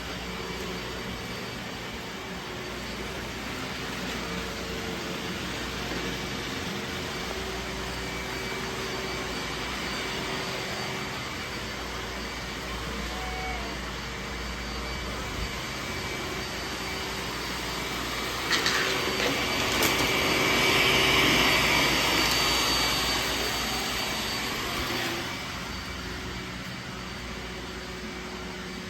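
Roomba robot vacuum running, a steady motor hum and whine that grows louder for a few seconds about two-thirds of the way through, with a couple of sharp knocks around then.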